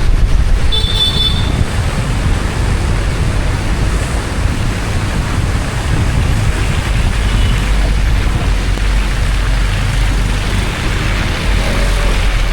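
Steady low rumble of road and wind noise from a car driving, with a brief high chirp about a second in.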